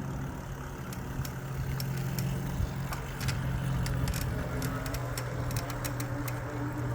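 E-bike riding along a paved trail: a steady low hum from the motor and tyres, with scattered light ticks and clicks.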